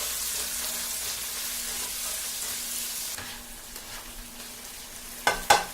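Chopped tomatoes and onions sizzling in hot oil in a frying pan, the sizzle easing a little about three seconds in. Two sharp knocks near the end.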